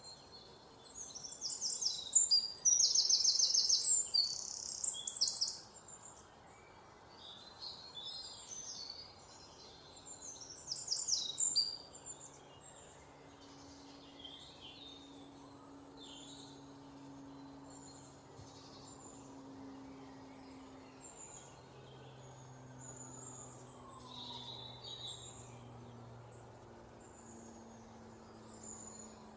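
Songbirds chirping and singing: a loud burst of rapid, high trills from about one to six seconds in, another shorter burst around eleven seconds, then scattered quieter chirps. A faint low background drone runs underneath.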